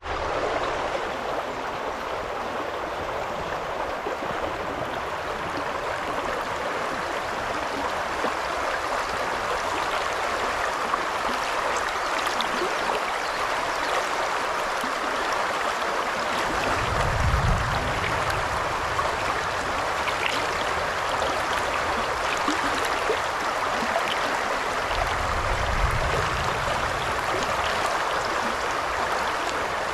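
Shallow river babbling steadily over stones, an even rushing and gurgling of water. Two brief low rumbles come in a little over halfway through and again near the end.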